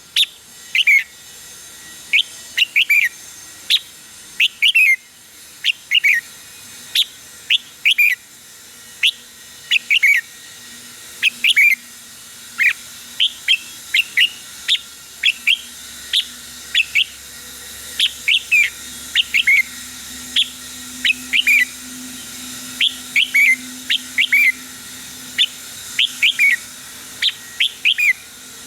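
Red-whiskered bulbul singing: short, clear whistled notes that fall in pitch, given in quick groups of two to four, repeated about every second.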